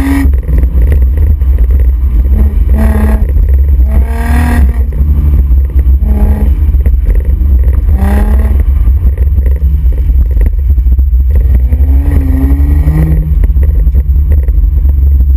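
Exhaust of a 2005 Infiniti G35 sedan's 3.5-litre V6 under hard driving on an autocross course. The revs climb and drop again several times as the driver accelerates and lifts between corners, over a heavy low rumble throughout.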